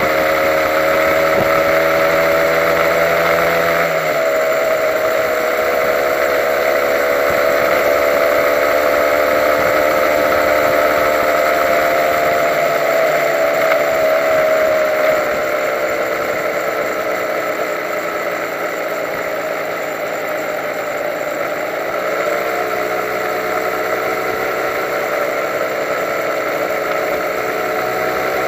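Honda NSR150's two-stroke single-cylinder engine running under way. Its pitch climbs about four seconds in, sinks slowly over the next twenty seconds, and climbs again around twenty-two seconds and near the end, over a steady hiss.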